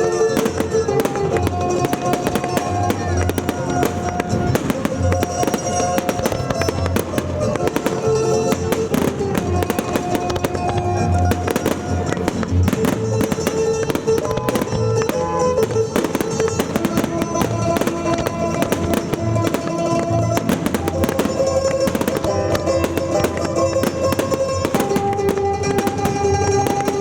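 Fireworks bursting and crackling rapidly over loud music played for the display.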